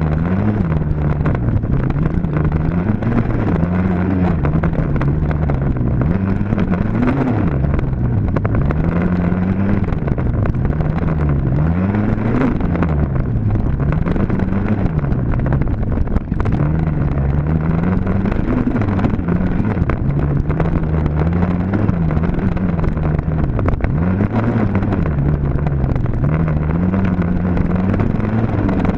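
Dirt bike engine running hard, its pitch rising and falling every second or two as the throttle opens and closes.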